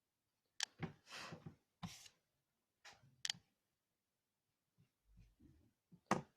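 Pencil working on paper: a few short, faint scratchy strokes and sharp clicks of the lead against the page, spaced irregularly.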